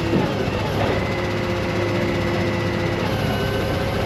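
Vehicle engine running steadily, with a few steady whining tones that shift in pitch now and then.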